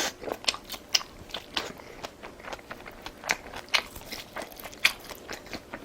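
A person chewing food with the mouth close to the microphone: a run of short, irregular mouth clicks.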